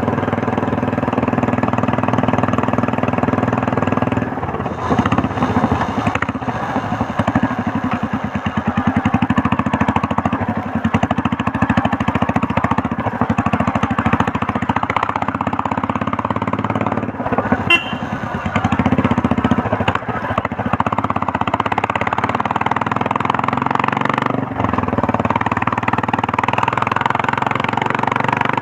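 Royal Enfield Meteor 350's single-cylinder engine and exhaust under way, a steady beat of exhaust pulses that is likened to a helicopter, easing off briefly a few times.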